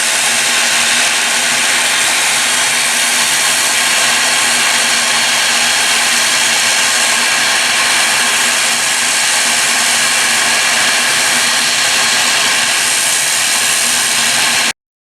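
Jet airliner engines running with a loud, steady roar and hiss, which cuts off suddenly near the end.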